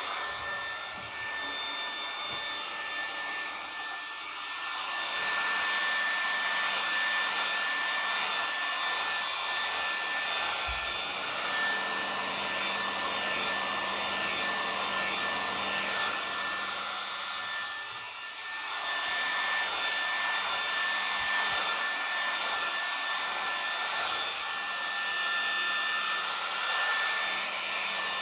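Remington HC6550 cordless vacuum hair clippers running, the motor and built-in vacuum giving a steady whirring hum with a constant high tone, dipping briefly twice as the clippers work through hair.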